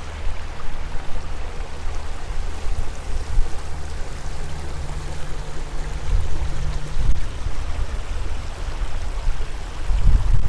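Creek water rushing steadily, under a louder, uneven low rumble that swells a little after the middle and again near the end.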